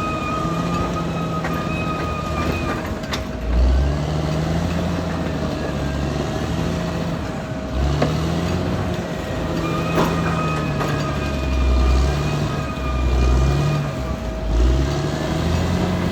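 Caterpillar D6R XL bulldozer's diesel engine running, its pitch and loudness rising and falling as the load changes. A steady high whine runs over it, stopping about three seconds in and coming back about ten seconds in.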